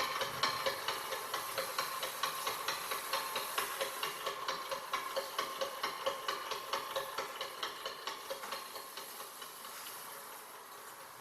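Experimental live electronic sound performance: an even ticking pulse, about four clicks a second, over a steady hiss, fading away and stopping near the end so that only the hiss remains.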